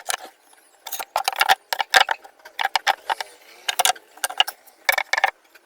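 Irregular clusters of sharp clicks and knocks, a clattering run of objects being handled.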